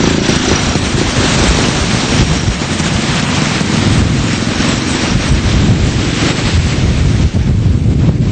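Loud, steady rush of fast-flowing floodwater, with wind buffeting the microphone.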